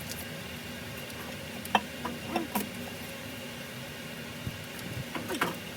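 A few light clicks and knocks of hand work on a car engine, the sharpest about two seconds in, over a steady background hum.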